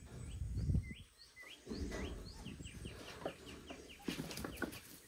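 A bird calling in a run of short rising chirps that come closer together as they go. Close, low rustling and bumping underneath is loudest about a second in, with crackly clicks near the end.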